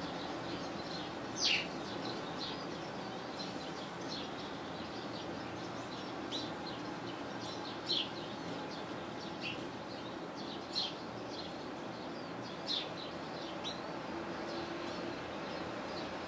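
Small songbirds calling: many short, high chirps, with a louder, sharp call every two to three seconds, over a steady background hiss.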